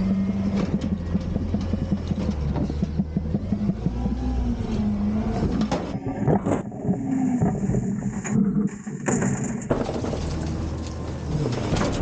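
Front-load garbage truck's engine revving to drive the hydraulics, its pitch rising and falling a few times. Repeated metallic clanks and knocks run through it as a large steel bin is lifted and emptied.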